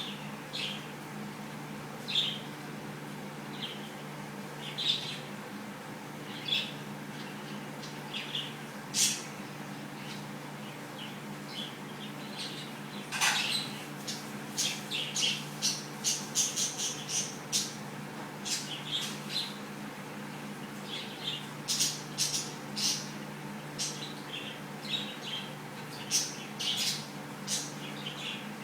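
Cockatiel giving short, high chirps, a few scattered at first and then a quick run of many through the middle, over a steady low hum.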